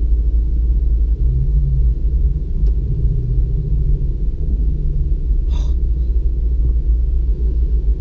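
Steady low rumble of a car on the move, heard from inside the cabin, with a brief hiss about five and a half seconds in.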